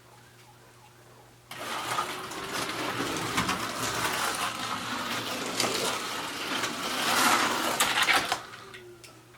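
Carrera BMW slot car running laps on a plastic slot car track: a small electric motor whirring with clicking and rattling from the car in the track slot. It starts suddenly about a second and a half in and stops abruptly about eight seconds in.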